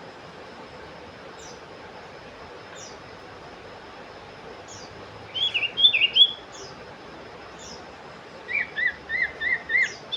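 Common iora (cipoh) calling. Thin, high, falling notes come about every second and a half. Two bouts of quick, sharp chirps break in: about four notes some five seconds in, and about six more near the end.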